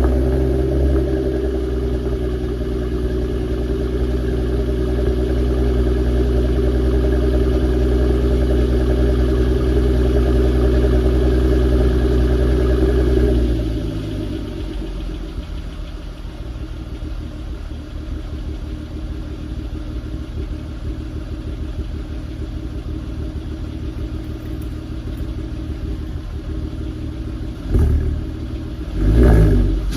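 VW New Beetle RSi's 3.2-litre VR6 idling after a cold start. The raised cold-start idle drops to a lower, quieter idle about halfway through. Near the end the engine is revved briefly twice.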